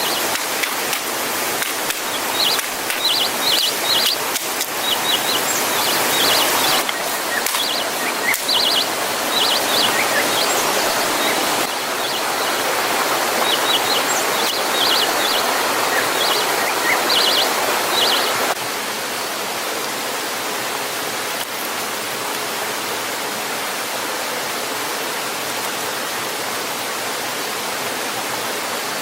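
Steady rush of falling water, with a small bird chirping in quick runs of high notes. About eighteen seconds in, the sound cuts to a smoother, steady rush of water with no birdsong.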